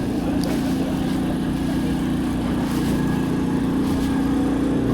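A steady motor running with an even, unbroken drone, growing slightly louder.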